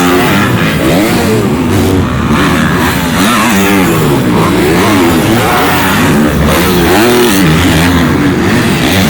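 Supercross dirt bikes on track, engines revving up and down in pitch over and over as the riders work the throttle, with several bikes heard at once.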